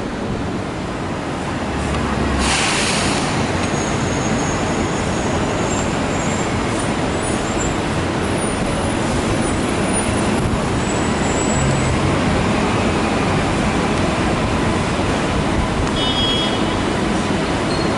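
A passing train, with a steady, dense rumble that swells about two seconds in, a short hiss of air just after, and faint high-pitched wheel squeal later on.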